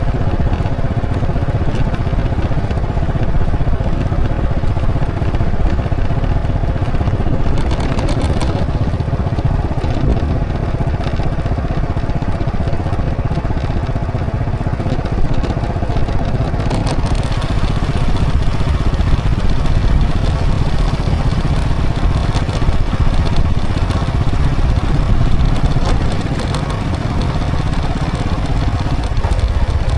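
Motorcycle running steadily while riding along a road, with a constant low rumble under the engine note.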